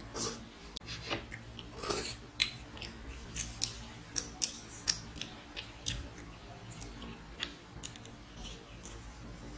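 Mouth noises of someone eating rice and curry by hand: wet chewing, lip smacks and fingers sucked clean, heard as an irregular string of short sharp smacking clicks, about one or two a second.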